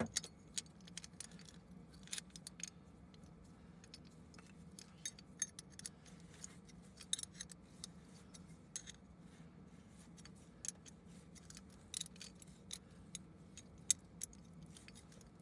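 Irregular light metallic clicks and clinks of a home-made puller being screwed into a threaded core plug on an engine cylinder head, over a faint steady low hum.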